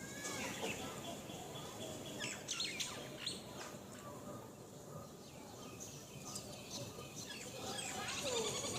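Small birds chirping with quick, high chirps and short calls, busiest about two to three seconds in and again near the end, over steady low outdoor background noise.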